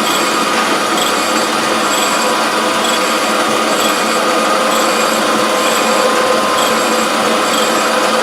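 Surface grinder running a grinding pass: the motor and wheel give a steady whine over a hiss of grinding, with a faint high pulse repeating about once a second.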